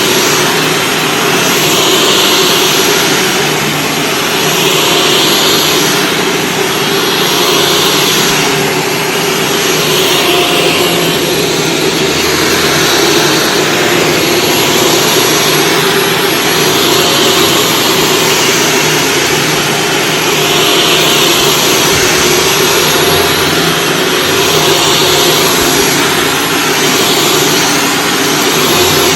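Shark Stratos vacuum cleaner running on carpet: a steady motor whine with a constant high whistle, swelling and easing about every two and a half seconds as it is pushed back and forth.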